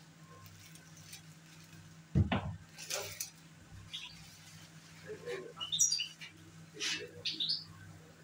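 A songbird giving a few short, high chirps in scattered notes in the second half, over a steady low hum. A loud knock comes about two seconds in.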